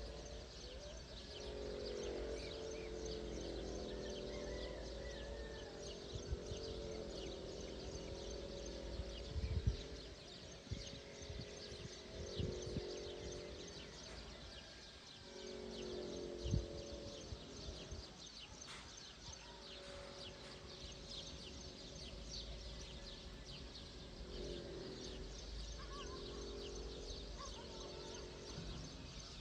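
Many small birds chirping at once, a dawn bird chorus, over a lower hum that comes and goes and some low rumble. A few sharp thumps sound in the middle.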